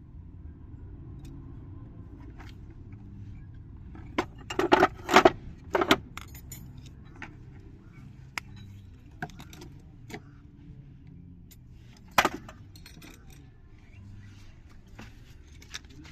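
Keys jangling and clicking in a few short bursts, loudest about four to six seconds in and again near twelve seconds, over a steady low rumble.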